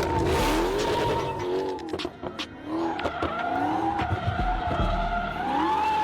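Car drifting: tyres squealing in a long wavering whine while the engine revs rise and fall underneath, with a brief lull about two seconds in.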